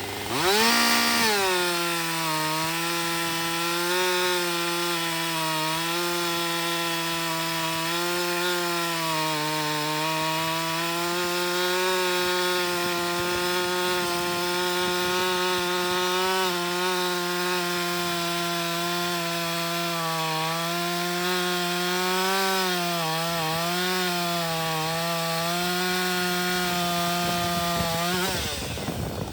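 Chainsaw revving up about a second in and cutting steadily through wood at full throttle. The engine pitch sags slightly under load and wavers, then drops off near the end as the cut finishes.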